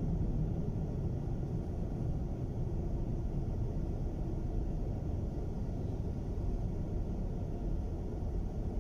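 Steady low rumble of a car driving at low speed, road and engine noise heard from inside the cabin.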